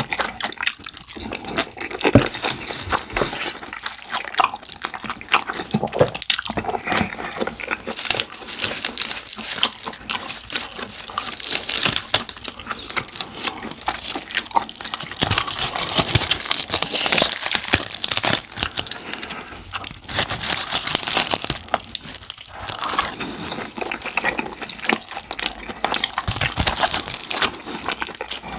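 Close-miked eating sounds of rice in curry and black-bean (jjajang) sauce: wet, sticky chewing and mouth sounds made up of many small irregular clicks.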